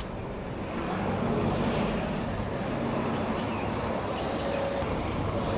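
A motor vehicle's engine running close by, a steady low hum that grows louder about a second in, over outdoor street noise.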